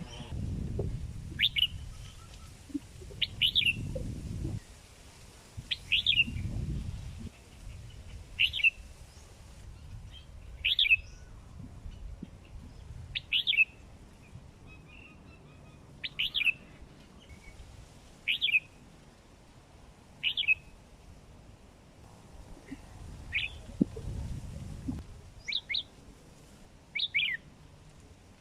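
Young red-whiskered bulbul, just over four months old, giving short, sharp single calls every two to three seconds, with a double call near the end.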